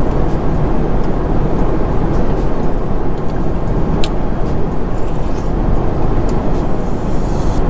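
Steady low cabin noise of an Airbus A350 airliner in flight, with a sharp click about four seconds in and a brief hiss near the end.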